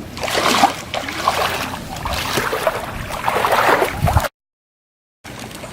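Water splashing and sloshing in uneven bursts. The sound cuts out completely for about a second near the end.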